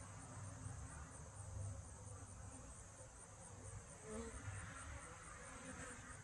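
Faint buzzing of honeybees at an open hive, under a steady, high-pitched chirring of insects that pulses quickly and evenly.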